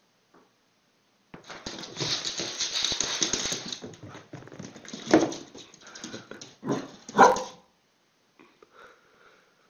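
A dog reacting to a lemon wedge: a few seconds of rustling and scuffling, then a few short, loud barks about five to seven seconds in.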